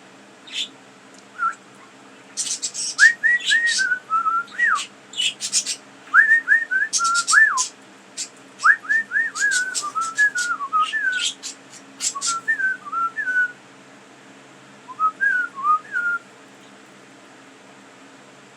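Pet budgerigar warbling: quick, gliding whistled notes mixed with sharp clicks and chatter, in runs that stop about three quarters through, then one short bout near the end.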